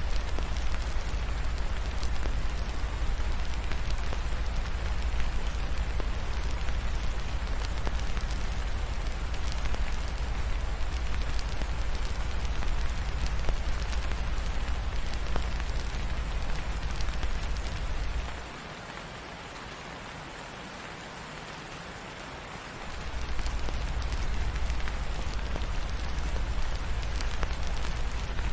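Steady rain falling, with scattered small crackles from a fireplace. A deep low rumble underneath drops away for about four seconds past the middle, then returns.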